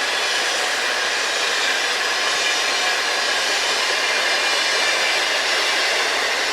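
Freight train cars rolling past with a steady rushing noise of wheels on rail, without distinct clicks or squeals.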